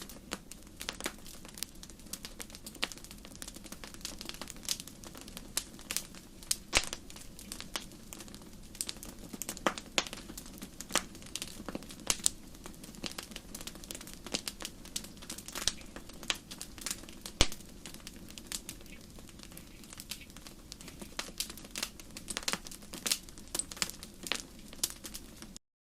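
Campfire crackling: burning wood popping and snapping in irregular sharp cracks over a steady low background. The sound cuts off suddenly near the end.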